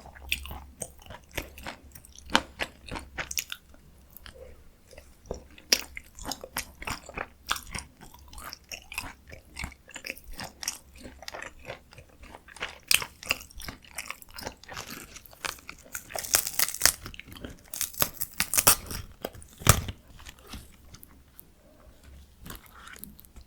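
Close-miked chewing of spicy stir-fried chicken (dakgalbi): a steady run of wet mouth clicks and crunches, busier about two-thirds of the way in. A single heavier thump comes shortly before the end.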